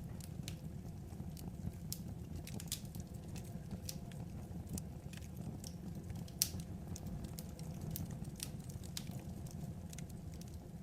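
Wood fire crackling: irregular sharp pops and snaps over a steady low rumble of the burning logs, with one louder pop about six and a half seconds in.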